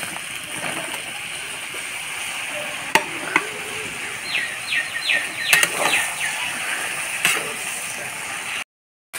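Brinjal (eggplant) pieces sizzling as they hit hot oil and fried spice paste in a kadhai, a steady hiss with a few sharp knocks. About four seconds in, a quick run of about six falling whistle-like notes sounds over it, and the sound cuts out briefly near the end.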